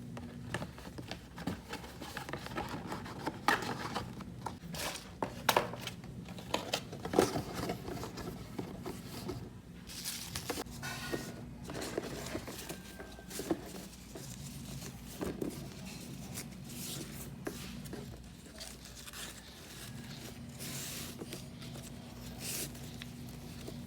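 Small handling noises: scattered taps, clicks and knocks with some rustling, busiest in the first half, over a faint steady hum.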